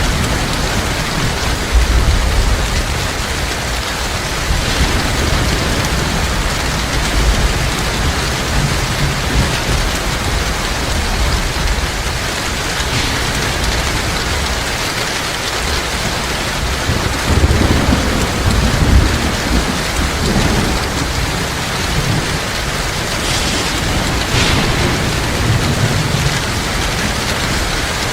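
Heavy rain falling steadily, with low rumbles of thunder that swell about two-thirds of the way through.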